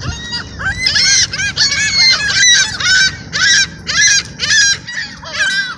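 A flock of gulls calling, harsh overlapping squawks about twice a second.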